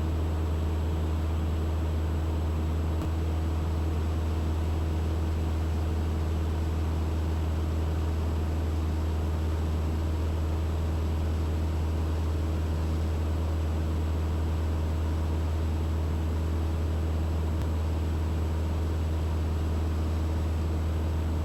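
Cabin drone of a Mooney M20E's four-cylinder Lycoming IO-360 engine and propeller in steady cruise: a constant low hum with an even rushing noise over it, unchanging throughout.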